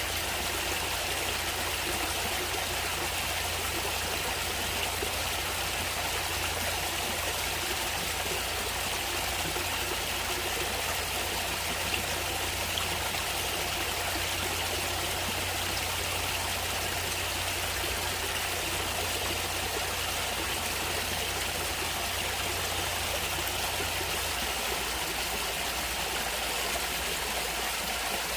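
Natural running water flowing steadily: an even, unbroken hiss of moving water.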